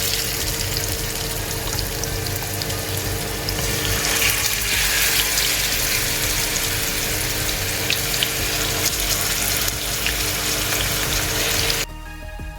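Marinated chicken pieces sizzling steadily in hot oil, a loud even hiss that cuts off suddenly near the end, leaving faint background music.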